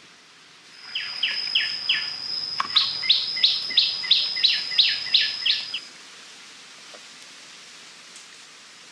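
A bird singing: about four short notes sliding downward, then a faster, louder run of about nine more, over a steady high thin tone; the song stops about six seconds in, leaving a faint steady hiss.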